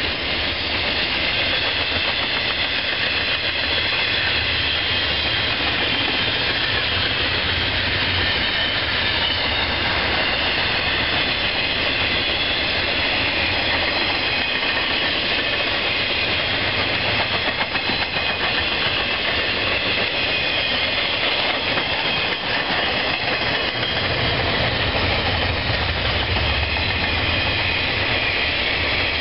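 A train rolling steadily past: the continuous rumble and rush of wheels on rail, with faint high-pitched tones over the noise.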